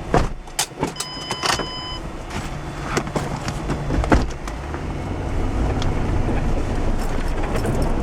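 Knocks and thumps of people getting into a car and shutting the doors, with a brief electronic tone about a second in, then the car running and driving off, its low engine and road rumble building.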